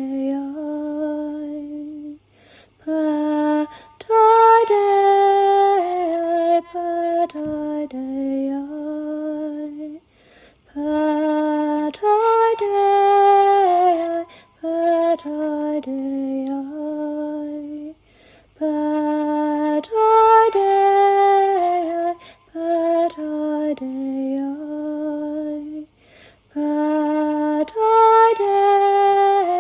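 A woman's voice singing a slow, devotional healing chant alone, with no instruments. The short phrases step up and down in pitch, are broken by brief pauses, and repeat in a similar pattern about every eight seconds.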